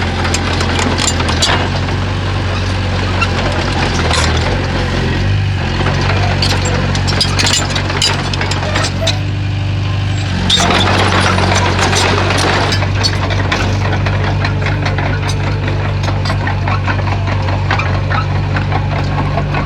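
Komatsu bulldozer's diesel engine running under load, its pitch stepping up and down a few times, with frequent sharp knocks and clatter.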